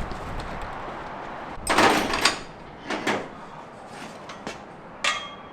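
Workshop handling noises: a short rattling scrape about two seconds in, a smaller one a second later, and a sharp metallic clank that rings briefly near the end.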